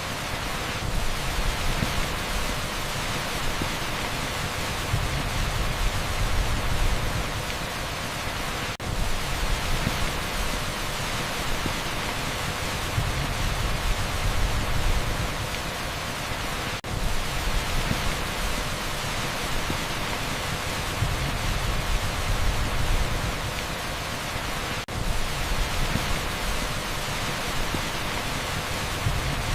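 Heavy rain pouring onto an asphalt street: a dense, steady hiss over a low rumble that swells and eases. Three times, about eight seconds apart, it drops out for an instant.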